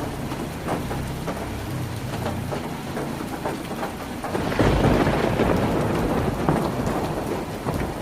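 Heavy rain drumming on a tin roof: a dense, steady patter of drops striking the metal, with a low rumble underneath. About halfway through it swells into a louder, deeper rush for a couple of seconds, then eases back.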